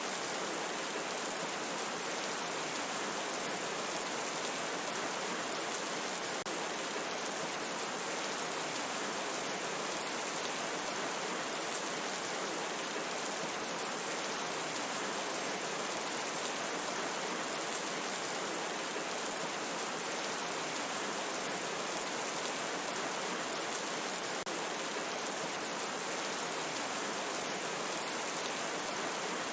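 Steady, even rain hiss, heavy rain falling without change.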